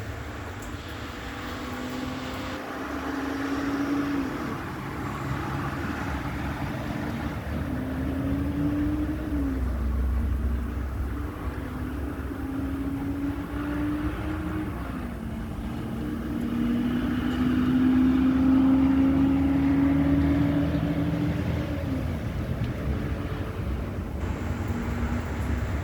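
A road vehicle's engine accelerating up through the gears: its pitch climbs and drops sharply at each of four gear changes, each gear held longer than the last, over the hiss of tyres on wet pavement.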